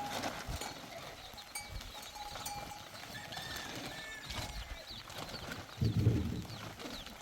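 Farm-animal sounds over an outdoor background, with scattered short high chirps and a louder low sound about six seconds in.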